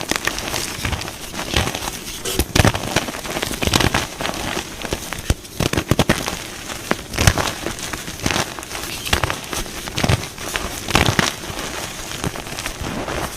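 Dyed gym chalk blocks being crushed: a dense, irregular run of crisp crunches and crumbling crackles, with a few louder snaps.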